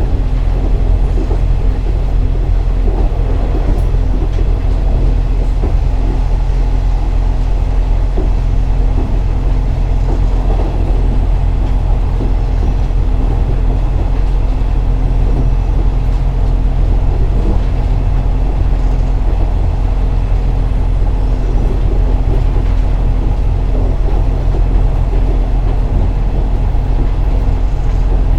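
KiHa 47 diesel railcar running, its engine droning steadily with a constant low tone under the rumble of wheels on rail.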